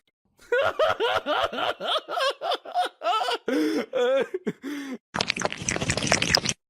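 Someone laughing in quick, repeated bursts for about four seconds. About five seconds in, a cut brings a harsher, noisier sound.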